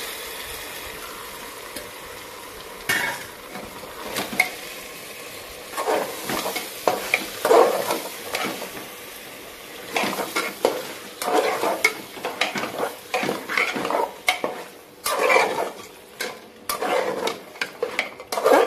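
Marinated chicken sizzling as it drops into hot masala in a pressure cooker. From about six seconds in, a spatula stirs and scrapes against the pot in irregular strokes while the frying goes on.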